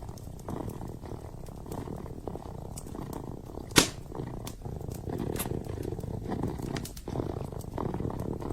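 A kitten purring steadily close up, with the crackle of a wood fire: scattered small pops and one loud snap about four seconds in.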